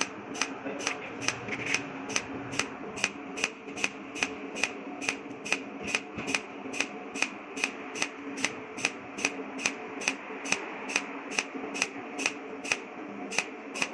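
Cold welding machine firing its pulsed arc, a sharp electric tick about three times a second in an even rhythm over a steady low hum.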